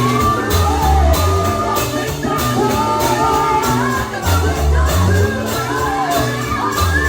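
Live gospel singing with a band: sung melody over a bass line and drums keeping a steady beat.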